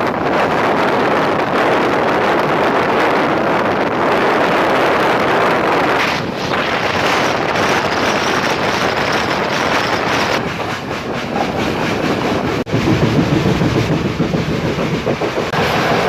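Express train running at speed, heard from on board: a dense, steady rumble of wheels on rail with wind buffeting the microphone. After a brief drop about three-quarters of the way through, the sound takes on a quick, uneven clatter of wheels over the rails.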